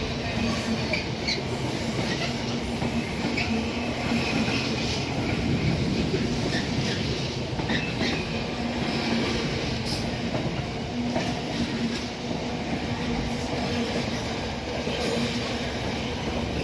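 A train running past on the line: a steady rumble of wheels on rail with a low hum throughout, and a few short, faint high squeaks from the wheels.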